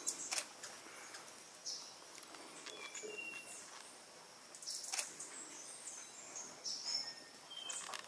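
Small birds calling with short high chirps and whistles, with a few sharp clicks or knocks: two right at the start, one about five seconds in and one near seven seconds.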